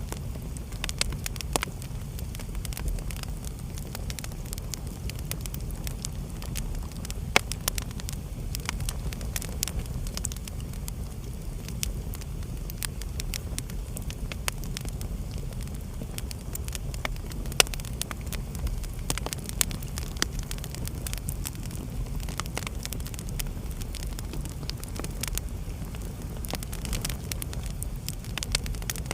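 Wood fire burning in a fireplace: a steady low rumble of the flames with frequent irregular crackles and pops, a few of them sharper and louder.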